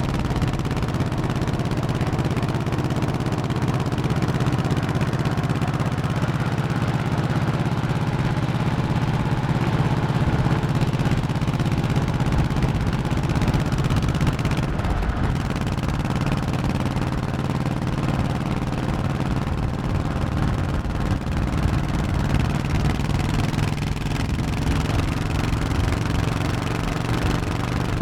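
Honda 1100cc V-twin motorcycle engine running under way at a steady pace. Its note changes about halfway through, then settles again.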